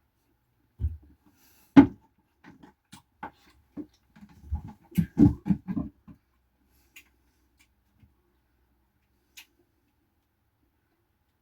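Irregular knocks and taps: a sharp knock about two seconds in, then a quick run of dull thuds around five seconds in, followed by a few faint ticks.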